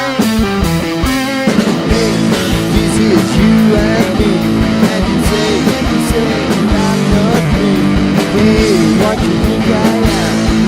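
Live rock band playing an instrumental passage: guitars, bass and drums, with a melodic guitar line that bends in pitch over a steady beat.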